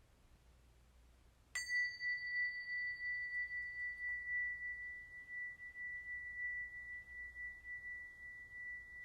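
A small metal chime struck once about a second and a half in, then ringing on as one clear high tone that wavers slightly and slowly fades.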